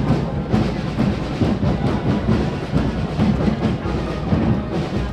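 Drums beating a busy rhythm, marching-band style, with deep bass-drum strikes.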